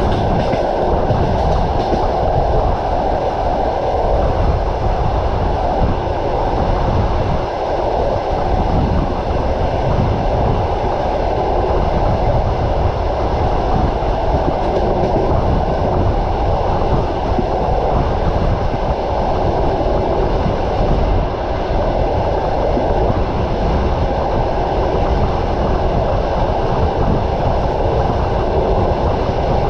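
Train wheels running on the rails: a steady, continuous rumble and rattle heard from on board a moving train.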